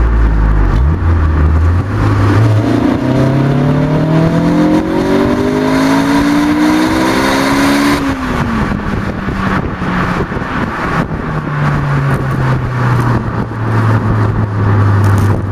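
Honda S2000 four-cylinder engine through a Bastuck duplex sport exhaust, rising steadily in revs for about six seconds, then dropping off sharply and sinking slowly back to a low steady run.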